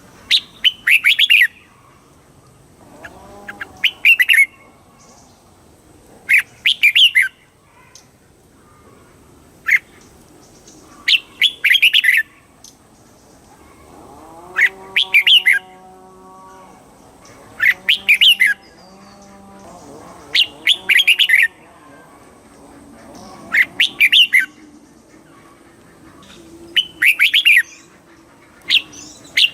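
Red-whiskered bulbul singing: short, loud, chirpy song phrases repeated about every two and a half seconds, around eleven of them. Midway a fainter, lower drawn-out call sounds beneath them.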